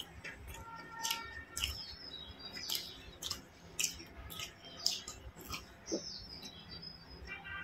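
Close-up mouth sounds of eating: wet chewing clicks and lip smacks as a bite of deep-fried egg chop is chewed, a scattered run of short sharp clicks, then sips of water from a glass near the end.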